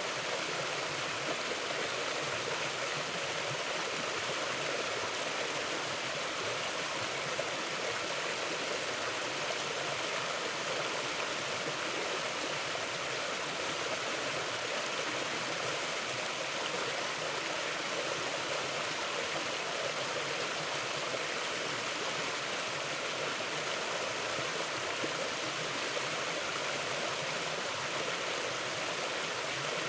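A mountain river flowing steadily over rocks, a constant rushing and gurgling of water.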